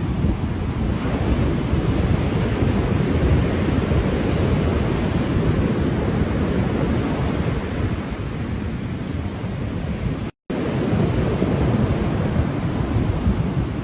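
Ocean surf: a steady wash of breaking waves, heaviest in the low end. It cuts out to silence for a split second about ten seconds in.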